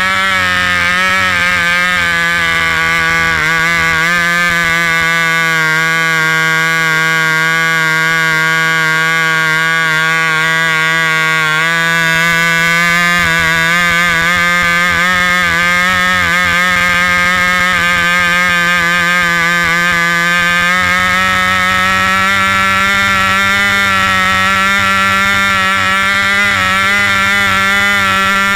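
Cox .049 model glow engine with an add-on muffler running continuously at a steady high pitch, shifting slightly in pitch a couple of times. The owner calls it not a good run.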